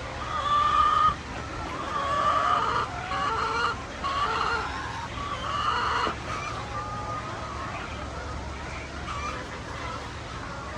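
Laying hens clucking and calling, with several drawn-out calls in the first six seconds and softer calls after. A low steady hum runs underneath.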